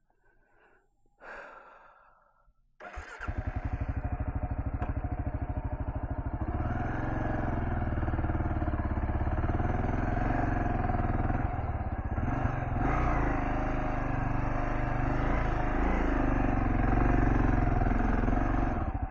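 Kawasaki KLR650 S single-cylinder four-stroke engine starting about three seconds in after near silence, then running with an even, steady beat that gets a little louder from about six seconds in.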